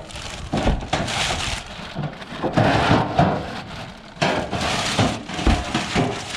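Junk being rummaged through and shifted by hand: irregular knocks, scrapes and rustling as pieces are moved around.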